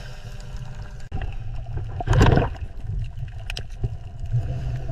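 Water churning with a steady low rumble and gurgle, a few small clicks, and one louder surge about two seconds in.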